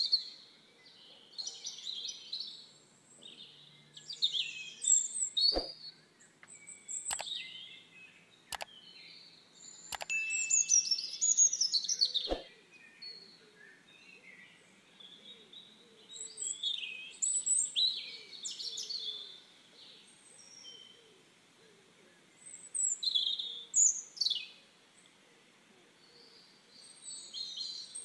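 Small birds chirping and singing, repeated short high-pitched calls and trills throughout. A few sharp clicks sound among them between about five and twelve seconds in.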